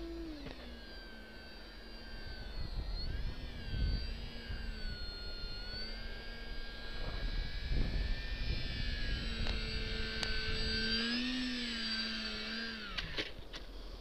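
Parkzone VisionAire RC plane's electric motor and propeller whining overhead, the pitch rising and falling with the throttle and dropping away near the end. Gusts of wind rumble on the microphone.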